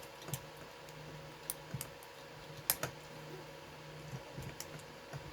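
Scattered light clicks and taps, about a dozen at uneven intervals, from parts being handled while a Dyson lithium-ion battery pack is taken apart by hand, over a faint steady hum.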